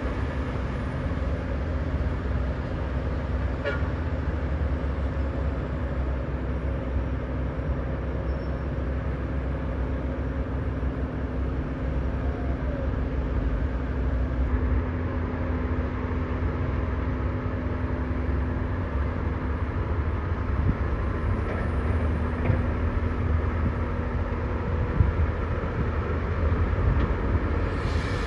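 Heavy diesel engines of a dump truck and bulldozer running steadily, with a steady low drone.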